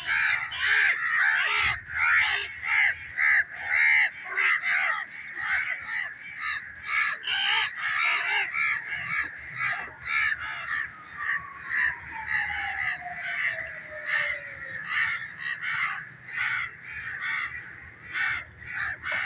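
A flock of small pet parrots calling harshly and continuously, many short shrill calls a second. A separate thin tone slides slowly downward from about eleven to fifteen seconds in.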